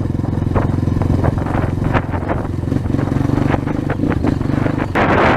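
A 230 dirt bike's single-cylinder engine running steadily at low revs while ridden slowly through mud, with scattered short clicks and rattles. About five seconds in, a loud rush of wind noise on the microphone comes in.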